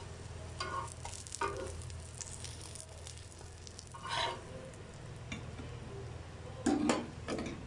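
Chicken shami kababs shallow-frying in oil on a tawa, with a steady sizzle. A spatula scrapes the tawa several times, more strongly near the end, as the kababs are lifted off.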